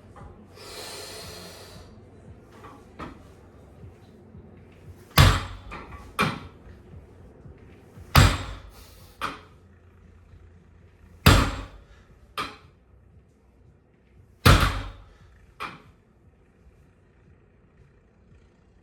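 A weight-loaded bar with bumper plates set down on the floor rep after rep: four heavy thuds about three seconds apart, each followed a second later by a lighter knock.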